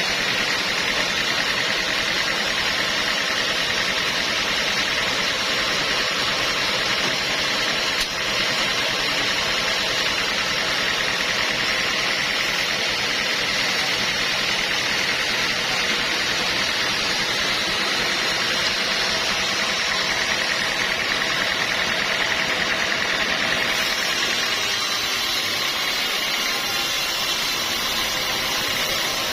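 Sawmill machinery running steadily, a continuous engine-like drone, with a single short click about eight seconds in.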